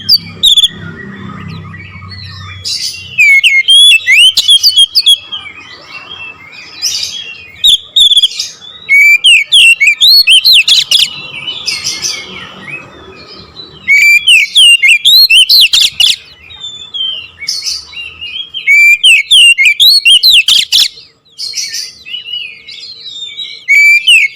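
Oriental magpie-robin (kacer) singing in loud, rapid phrases of fast sweeping whistles and chatter, each burst lasting a second or two, with a longer run of about four seconds partway through and short pauses between phrases.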